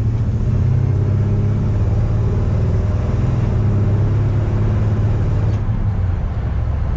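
1957 Chevrolet 3100 pickup's 350 small-block V8 pulling steadily while driving, with road noise. The engine note settles lower about six seconds in.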